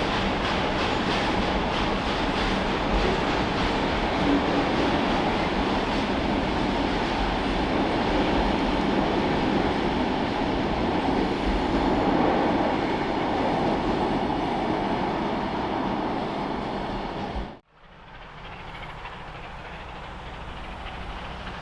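A train passing close by with steady, loud rail noise. About three-quarters of the way through it cuts off abruptly, leaving a much quieter steady background.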